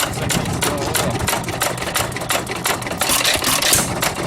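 Fuller and Johnson 3 hp hit-and-miss gasoline engine running, with a fast, even clicking over a low steady hum.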